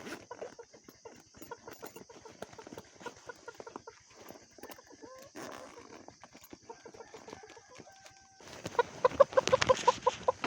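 Chickens clucking in short repeated notes, ending in a loud, rapid run of clucks and squawks in the last two seconds.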